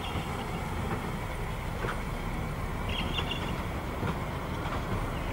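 Heritage Walker railcar set running past over a bridge: a steady low rumble with a few faint clicks from the wheels.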